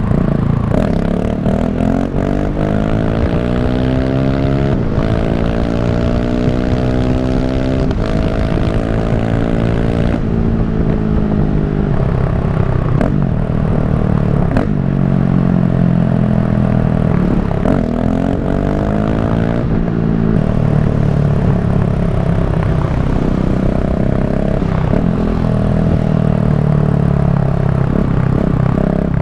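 KTM 690 SMC R single-cylinder supermoto engine pulling hard under acceleration: its exhaust note climbs in pitch and falls back at each gear change, several times over. Near the end it runs more steadily.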